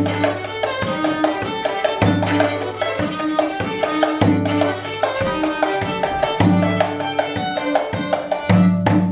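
Live improvised music in a Korean traditional style: a bowed string line over quick, dense hand-drum strokes, with a low sustained bass note that shifts every second or so.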